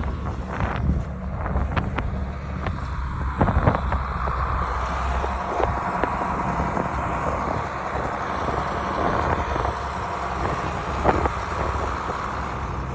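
Motor vehicle engine running steadily, with scattered knocks and clatter over it.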